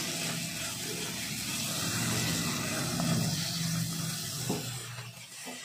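Cashew-almond masala paste sizzling in a non-stick kadai while it is stirred with a silicone spatula, as turmeric and red chilli powder are fried into it. A steady hiss fades a little near the end.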